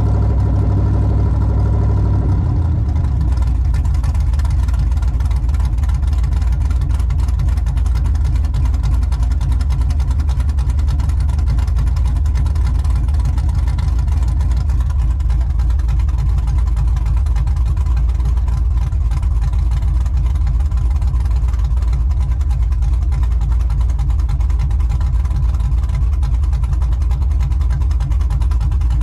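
Cammed 5.3 LM7 V8 of a 2000 Chevrolet Silverado, with a TSP 224R cam and long-tube headers, running steadily at idle. About two and a half seconds in, its sound changes from an even hum to a choppier, rougher low pulsing.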